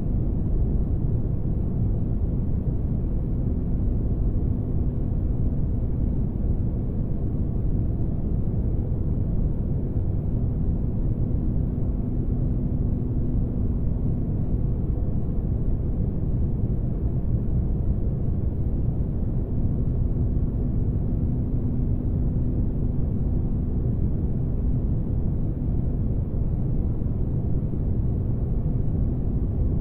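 Spaceship ambience noise: a steady, deep engine-like rumble with a faint hum that fades out for a few seconds near the middle and again near the end.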